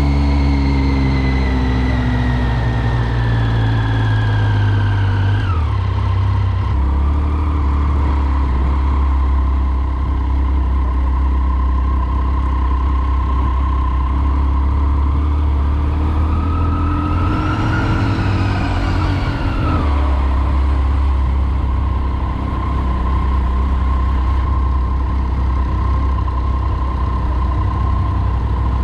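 Triumph Speed Triple's 1050 cc three-cylinder engine under way. The engine note falls as the bike slows over the first few seconds and breaks briefly about six seconds in, then runs steady. The revs rise and fall briefly about two-thirds of the way through before settling back to a steady drone.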